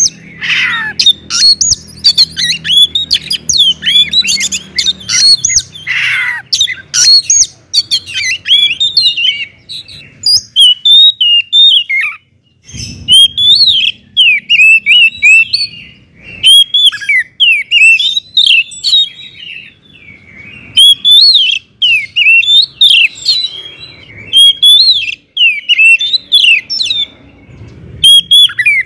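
Oriental magpie-robin (kacer) singing a loud, fast, varied song of whistles, chirps and harsher notes, with only brief pauses.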